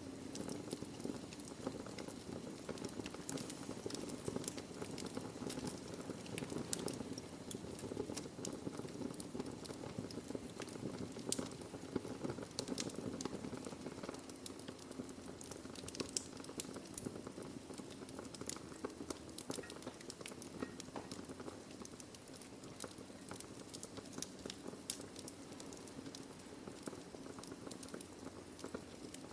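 Wood fire burning in a fireplace: a steady low hiss and rumble of flames with many sharp, irregular crackles and pops from the burning logs.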